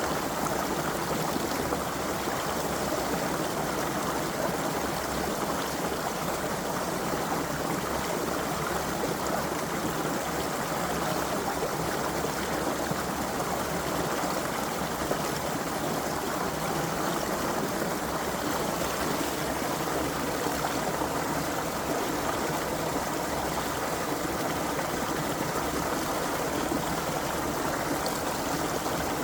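Creek water flowing and gurgling over stones, a steady, even rush of running water.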